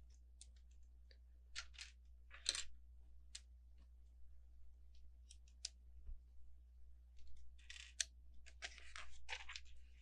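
Small plastic LEGO bricks clicking and tapping as they are handled and pressed together. A short stretch of denser rustling and rattling comes near the end.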